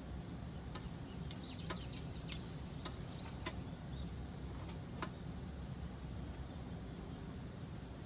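Wood fire burning in a fire pit, giving a string of sharp crackles and pops over a steady low rumble. A faint, high, wavering chirping runs through the middle of the string of pops.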